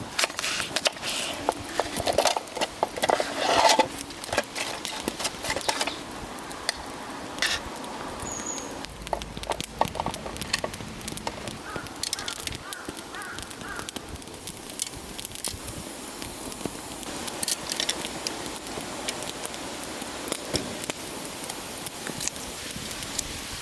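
Split firewood burning in a fire pit, crackling with scattered sharp pops, busiest and loudest in the first few seconds.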